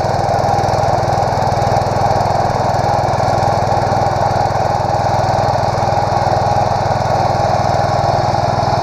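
Allis-Chalmers 716H garden tractor's engine running at a steady, unchanging speed, loud and close.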